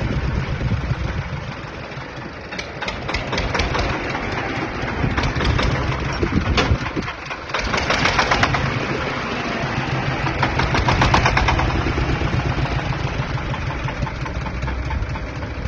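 Tractor engine running with a fast clatter; it dips briefly about seven seconds in, then picks up again.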